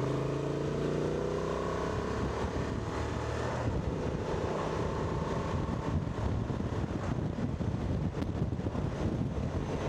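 Motorcycle engine accelerating, rising in pitch for the first few seconds, then wind rushing over the microphone takes over as the bike reaches speed.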